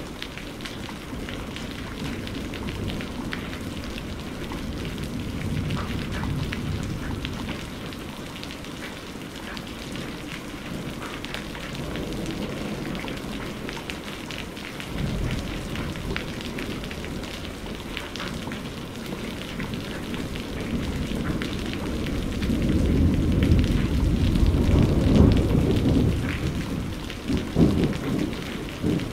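Steady rain pattering with crackling drops, under rolling thunder. A low rumble comes in suddenly about halfway, and a longer, louder roll of thunder builds up in the last third and rumbles on near the end.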